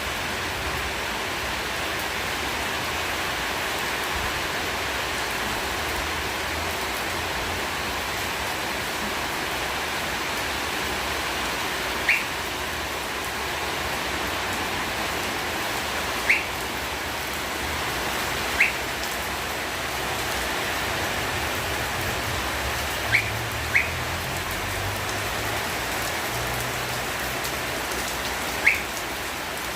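Steady rain falling, an even hiss. Brief high chirps come through now and then, six times over the second half.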